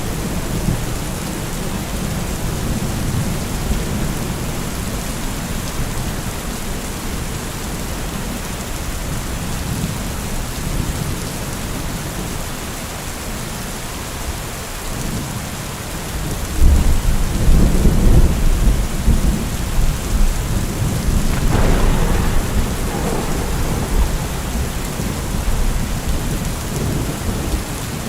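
Steady rain falling, with a long roll of thunder that breaks in suddenly just past halfway and rumbles on for several seconds.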